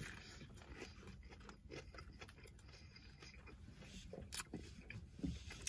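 Close-miked chewing of a bacon cheeseburger topped with onion rings: a bite at the start, then faint chewing and mouth clicks, with a few louder smacks about four and five seconds in.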